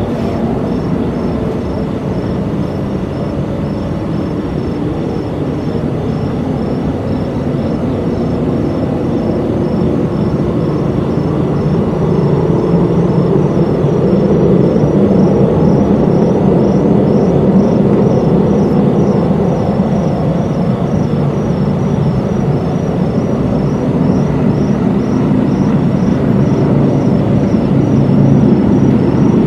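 A loud, continuous low rumble of unidentified origin, growing louder partway through. Above it runs a faint, regular high chirping, about two pulses a second.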